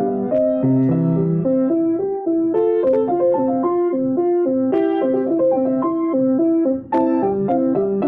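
Solo piano playing a flowing piece, a steady run of notes several to the second with chords underneath.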